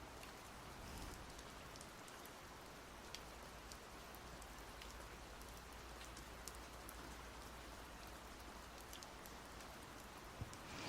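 Faint, steady rain, with scattered single drop ticks over the even hiss. There is a soft low thump near the end.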